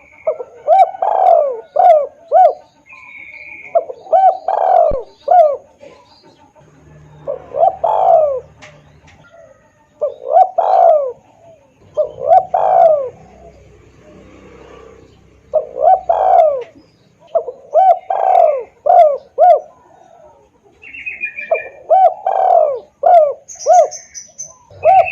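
Spotted dove (tekukur) cooing loudly, phrase after phrase every two to three seconds, each a longer swooping coo among short clipped notes, the call used to lure the birds. A smaller bird chirps briefly now and then.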